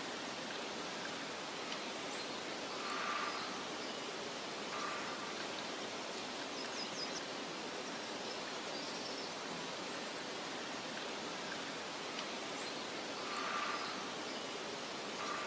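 Steady, even outdoor ambience hiss with a few faint, brief high bird chirps and two soft swells. The same pattern comes back about ten seconds later, as in a looped recording.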